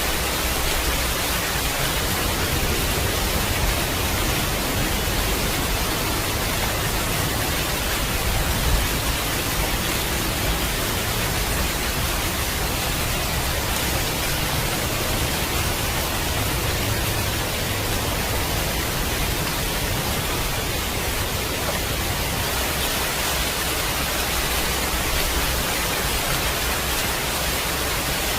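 Steady, heavy rain making an even hiss, with a low rumble underneath that swells and fades.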